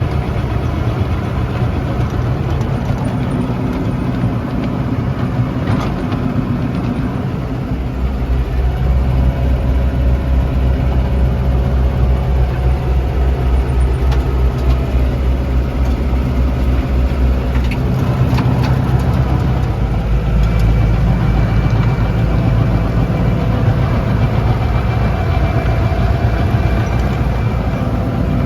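Lovol tractor's diesel engine running steadily at about 2000 RPM under load while driving a PTO snowblower through hard, compressed snow. Its low hum grows heavier for a stretch about eight seconds in and again about twenty seconds in.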